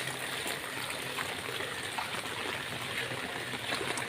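Steady hiss of water on a rain-flooded road, with faint scattered drip-like ticks.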